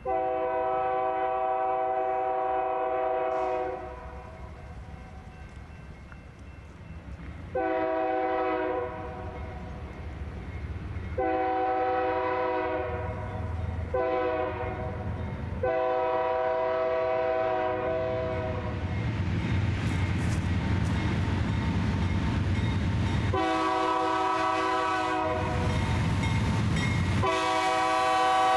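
Locomotive air horn sounding about seven blasts of uneven length, some long and some short. Between the blasts the low rumble of the train grows louder and steadier in the second half.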